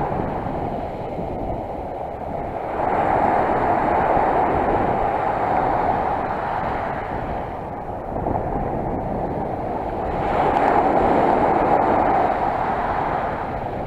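Sea surf washing on the shore: a rushing noise that swells and fades, louder about three seconds in and again about ten seconds in.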